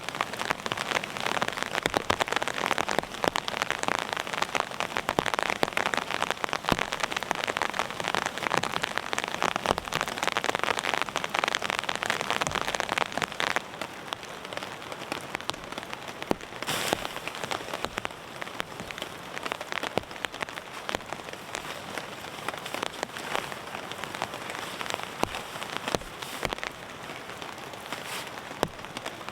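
Heavy rain falling and pattering on a surface, a dense, even patter of drops that turns lighter about halfway through.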